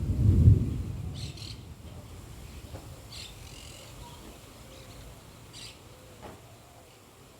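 A low roll of thunder, loudest about half a second in and dying away over the next second, then a bird's short high calls three times over a quiet background.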